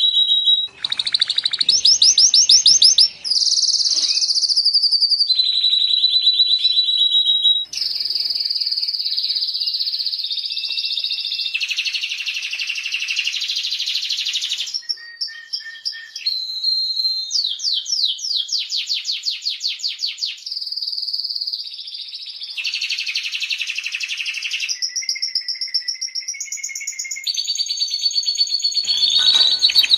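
Domestic canary singing a long unbroken song of rapid trills and rolls, switching to a new trill pattern every one to three seconds.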